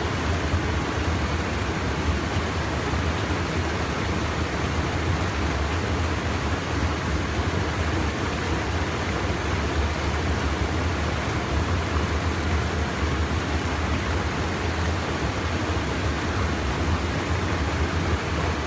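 Steady rush of river water spilling over a small check dam.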